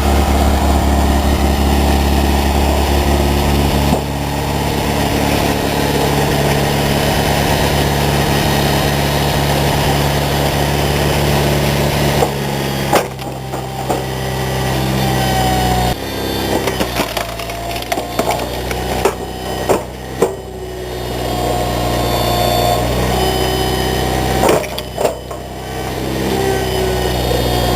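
Engine-driven wood splitter running steadily, then wood cracking and splintering in sharp bursts as logs are split, from about halfway through; the engine's note shifts under the load.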